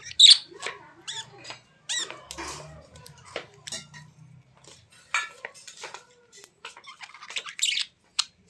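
A small bird giving a string of short, high squeaky chirps, some with quick pitch sweeps, at irregular intervals.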